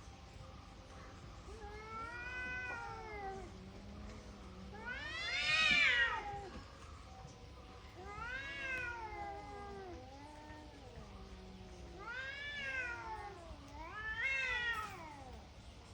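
Domestic cat meowing five times, each a drawn-out call that rises and then falls in pitch; the second meow is the loudest.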